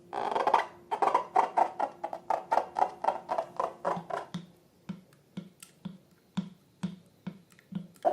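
Slime being worked by hand: a quick run of short, sharp squelches and clicks, about three a second at first, growing sparser and more irregular about halfway through.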